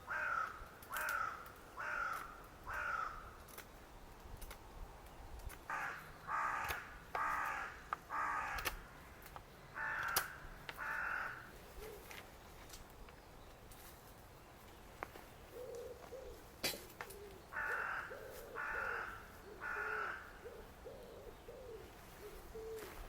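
A crow cawing in runs of three or four harsh caws, with pauses between runs. In the second half a softer, lower call repeats over and over beneath it.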